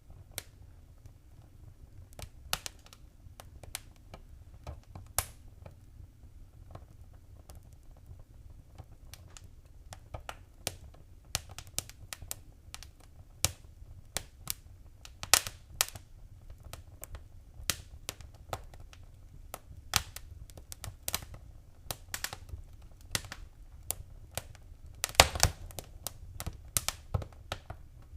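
Wood fire crackling: irregular sharp pops and snaps over a low steady rumble, with a quick run of louder pops near the end.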